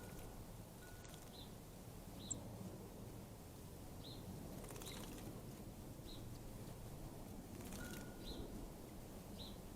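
Faint birdsong: short high chirps repeated about once a second, over steady outdoor background noise, with a brief flat whistle-like tone now and then.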